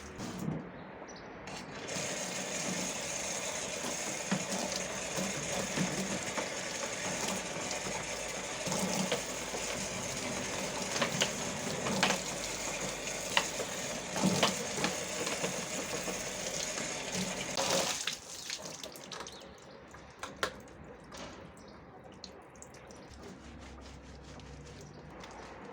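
Water running steadily while something is rinsed, with occasional knocks and clatters of handling; the water shuts off about two-thirds of the way through, leaving only faint clicks and knocks.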